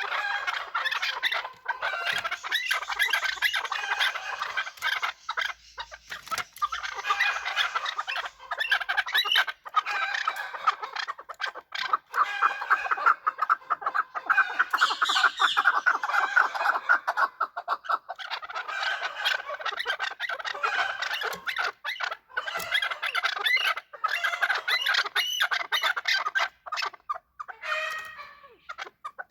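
Chukar partridges calling: a long, continuous run of rapidly repeated short chuck notes that rises and falls in loudness, with brief lulls.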